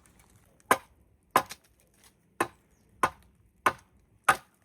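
Six sharp chopping blows into wood, spaced roughly a second or less apart, as a post or beam is cut and trimmed with a blade.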